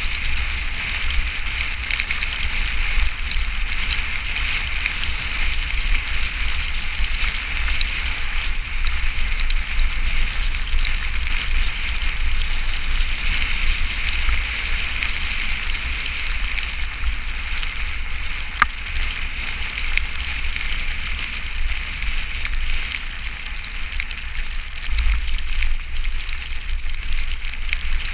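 Steady hiss of rain and wet spray, with a low rumble underneath throughout and a single sharp click about two-thirds of the way through.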